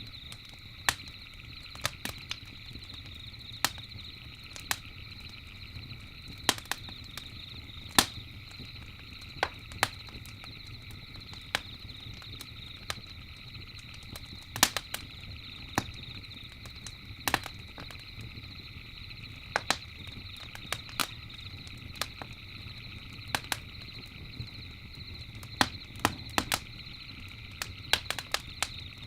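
Campfire crackling, with sharp irregular pops about one to three a second, over a low rumble and a steady high-pitched chorus of night creatures.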